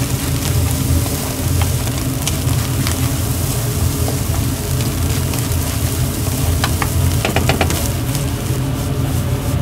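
Nasi goreng (Indonesian fried rice) sizzling and frying in a hot pan, a steady hiss over a low rumble. A quick run of sharp clicks comes about seven seconds in.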